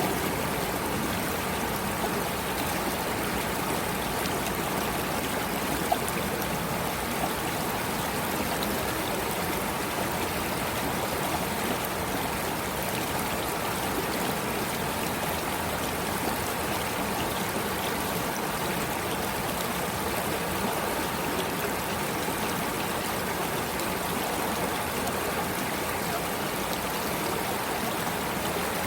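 Running water of a stream flowing steadily, with one brief click about six seconds in.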